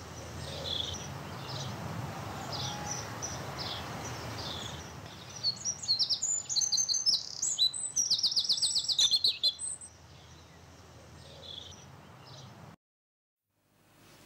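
Birds singing: short high chirps repeating throughout, with a loud run of quick trilled notes in the middle, over a low steady background noise. The sound cuts off abruptly shortly before the end.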